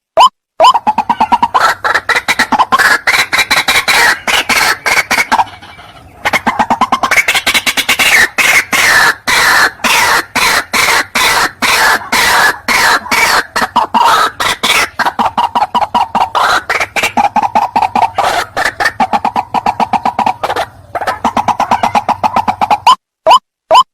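White-breasted waterhens (ruak-ruak) calling: a fast, dense run of harsh repeated notes, several a second, with a brief lull about six seconds in, stopping just before the end.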